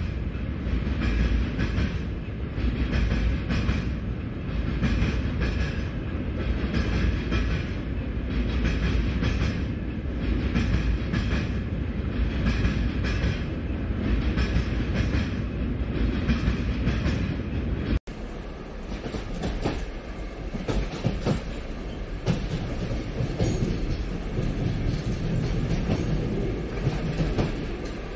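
A train rolling along the rails: a steady rumble with a regular clickety-clack of wheels over the rail joints. About 18 seconds in the sound cuts abruptly to a less regular clatter.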